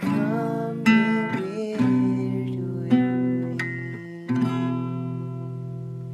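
Acoustic guitar music, notes plucked or strummed about once a second and left to ring, fading near the end.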